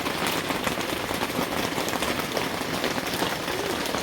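A steady, even hiss of water.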